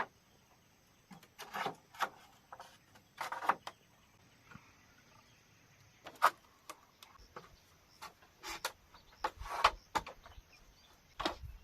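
Irregular sharp knocks and cracks, about one every second or so at uneven intervals, some drawn out into a short scrape, over a quiet background.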